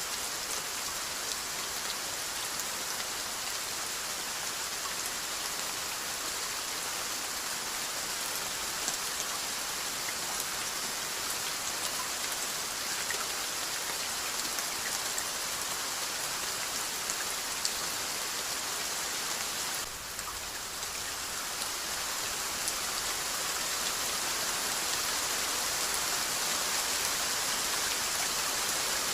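Steady rainfall: a dense, even hiss of rain with scattered individual drops ticking through it. The level dips briefly about two-thirds of the way through, then comes back slightly louder.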